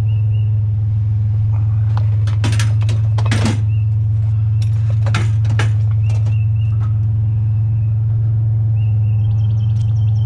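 Knocks and clanks of scrap being handled and stood up, in a cluster about two to three and a half seconds in and again around five seconds, over a steady low hum. Birds chirp, with a quick run of chirps near the end.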